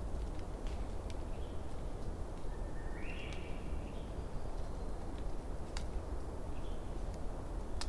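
Campfire burning with a steady low rumble and a few sharp crackling pops. A faint animal call rising in pitch comes about three seconds in.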